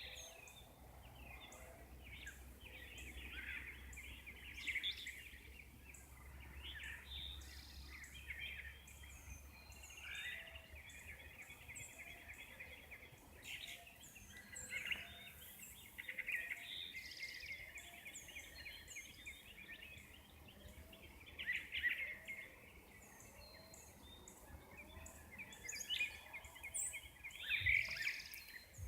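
Dawn chorus: several wild birds singing and calling at once, with overlapping song phrases and short high chirps, and a softer lower note repeating about once a second.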